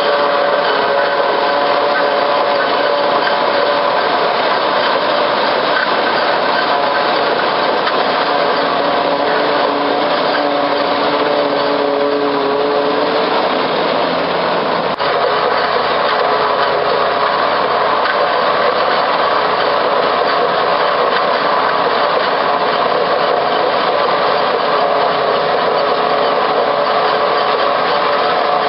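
SRM1000 corn-stalk harvesting machine running steadily, a constant mechanical drone with several steady hums whose pitch shifts slightly now and then. There is a brief small dip in level about halfway through.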